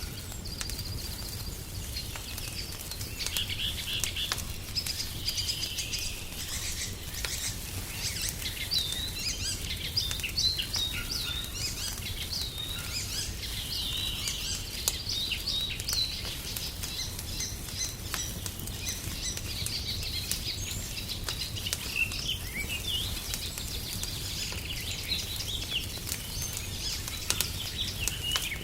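Wood fire crackling with scattered sharp pops, mixed with songbirds chirping and twittering throughout, over a low steady rumble.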